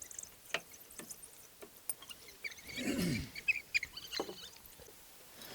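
African wild dog pups giving short, high squeaks and chirps, with one louder call about three seconds in that falls in pitch.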